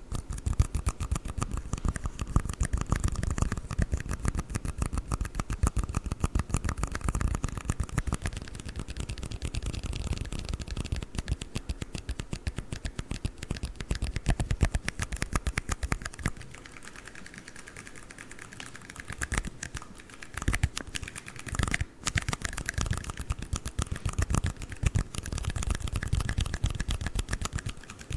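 Fast tapping on red plastic cups: a dense, rapid stream of sharp clicks. It turns lighter for a few seconds past the middle and breaks off briefly before picking up again.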